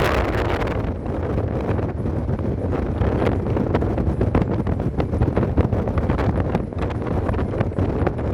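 Wind buffeting the microphone: a steady low rumble with frequent short crackles.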